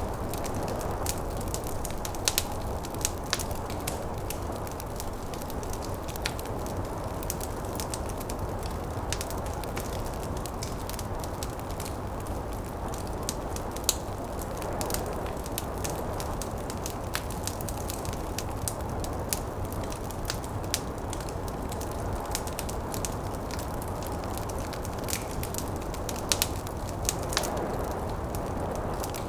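Wood fire crackling, with frequent irregular sharp pops and snaps over a steady low rushing of snowstorm wind that swells a little now and then.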